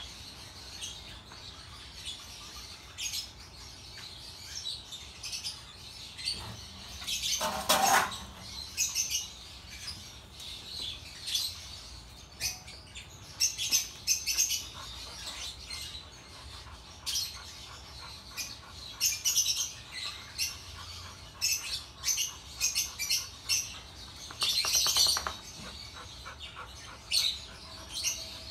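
Small birds chirping in short, repeated high calls. A single louder, fuller sound comes about eight seconds in, and there is a denser burst of calls near the end.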